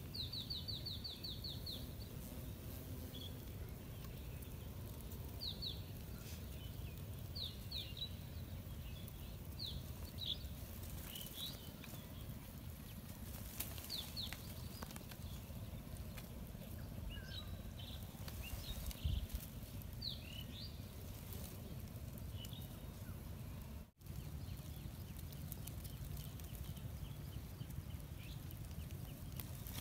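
Pondside outdoor ambience with small birds chirping: a quick run of about eight short high notes at the start, then scattered single and paired chirps, over a steady low rumble. The sound drops out for an instant about four-fifths of the way through.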